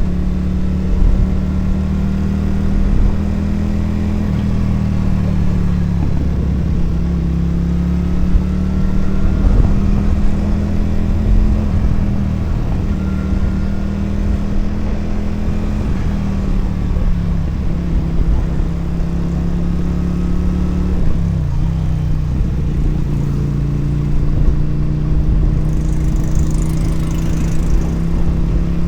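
Motorcycle engine running steadily under way, its pitch easing gently up and down with the throttle.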